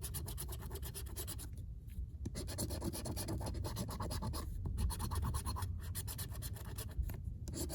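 Rapid scratching of the coating off a California Lottery scratch-off ticket, in quick strokes broken by a few short pauses.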